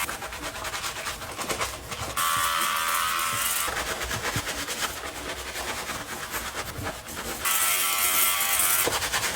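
A small electric motor buzzing steadily, growing louder and brighter for about a second and a half twice: a little after two seconds in and again near the end.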